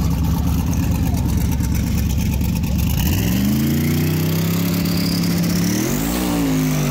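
Drag car engine running loud, then revving up about three seconds in, its pitch rising and holding as the rear tyre spins in a burnout, with another short rise and dip near the end.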